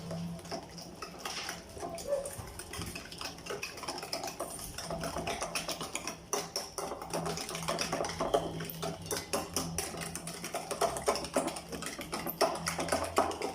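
Cake batter of eggs, sugar, oil and yogurt being beaten in a bowl, the utensil clicking and clinking rapidly against the bowl.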